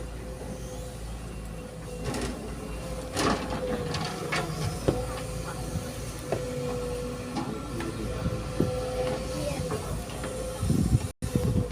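Heavy diesel machinery at work as an excavator loads sand into a dump truck: a steady low engine rumble with a constant whine, broken by scattered knocks and clanks. The sound cuts out briefly near the end.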